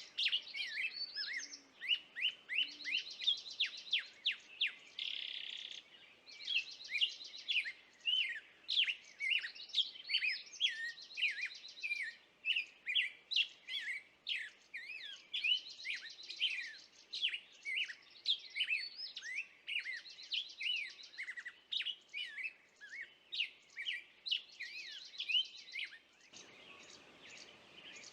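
Songbirds singing: dense, rapid chirps and trills that repeat throughout, breaking off a couple of seconds before the end.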